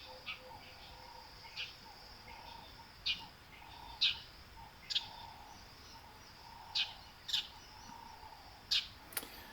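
Birds calling: short, sharp, high chirps about once a second, over a faint steady background hiss.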